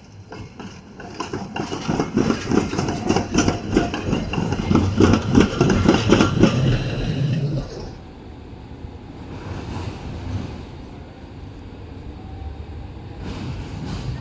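A tram passing close by, its steel wheels clattering rhythmically over rail joints and points for several seconds. The clatter stops abruptly about eight seconds in, leaving a lower steady street hum.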